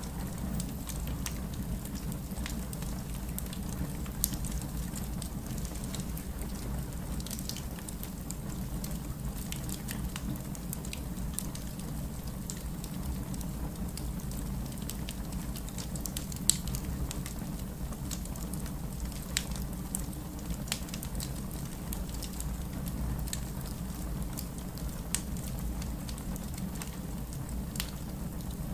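Wood fire crackling in a fireplace: a steady low rumble of flame with irregular sharp pops and snaps, one louder pop about halfway through.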